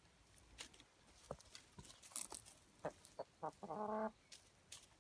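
Chickens clucking faintly: a few short clucks near the middle, then one longer drawn-out cluck about four seconds in, among scattered faint clicks.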